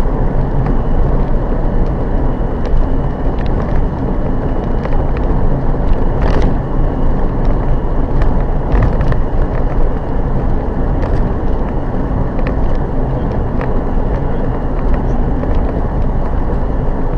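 Steady road and engine noise of a moving vehicle, heard from inside with a dashcam's microphone, with a few faint ticks.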